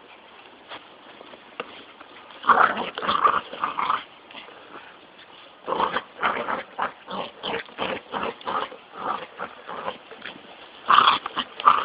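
A dog vocalising in play in rapid runs of short noises: one cluster about two and a half seconds in, a longer run from about six to ten seconds, and another near the end.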